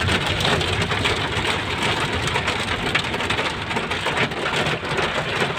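Steady rain on a moving vehicle, with the low hum of engine and road noise underneath.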